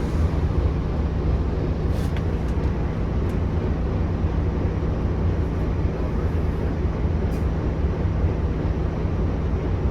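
Volvo B9TL double-decker bus's 9.4-litre six-cylinder diesel engine running steadily, heard from inside the bus, with a few brief clicks about two, three and seven seconds in.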